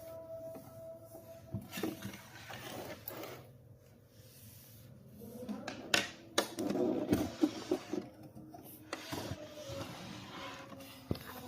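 Rubbing and scrubbing on a plastic sewing machine's parts during hand cleaning, in several stretches, with a handful of sharp clicks and knocks about six to eight seconds in. Soft background music fades early and returns near the end.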